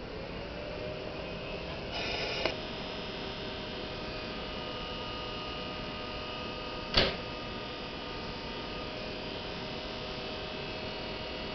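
Old red Keikyu 1000-series electric commuter train drawing to a halt at a platform. A short burst of brake noise about two seconds in cuts off sharply as it stops, then the standing train hums steadily with a few held tones. One sharp, loud short noise comes about seven seconds in.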